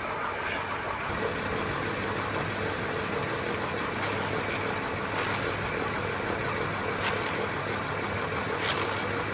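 A machine motor running steadily, with a constant hum and a steady tone that joins about a second in.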